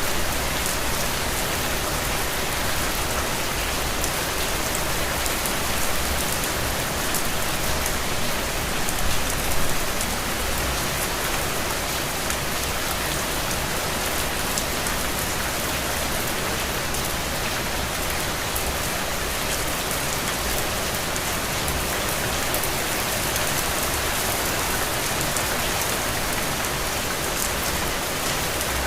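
Steady rain falling, an even hiss of drops with fine pattering ticks, a little louder for a moment about nine seconds in.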